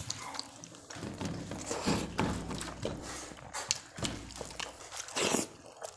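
People eating rice and egg curry: chewing and mouth noises with irregular clicks and small knocks.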